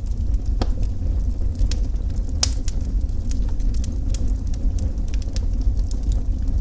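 Wood fire crackling in a fireplace, with sharp pops scattered irregularly over a steady low rumble; one louder pop about two and a half seconds in.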